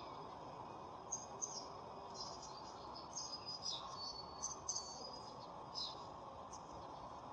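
Birds chirping: many short, high chirps scattered through, over a steady low background hiss.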